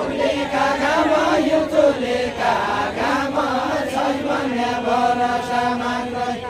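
Voices singing a Deuda folk song together in a chant-like melody, with long wavering held notes.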